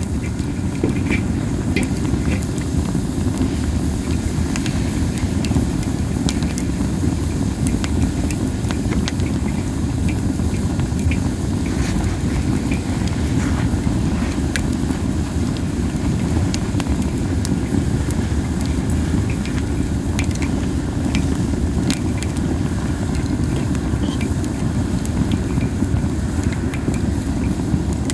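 Masaki (Japanese spindle tree) wood burning in an open fire, with scattered sharp crackles and pops over a steady low rumble.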